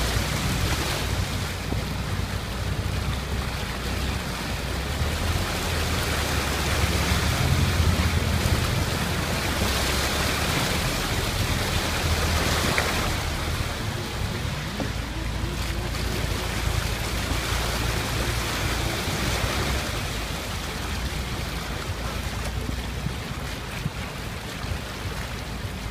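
Floodwater rushing and splashing steadily, swelling and easing in waves, with a low rumble underneath.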